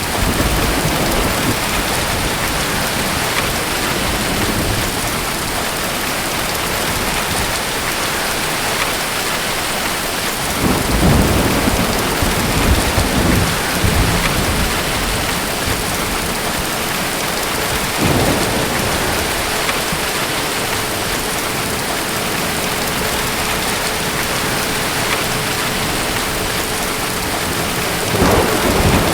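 Steady rain of a thunderstorm, with low rumbles of thunder: a longer rolling one about a third of the way in, a short one past the middle, and another near the end.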